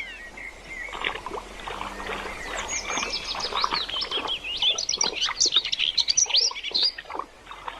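Small birds chirping: many quick, high chirps, growing busier about halfway in and thinning out just before the end.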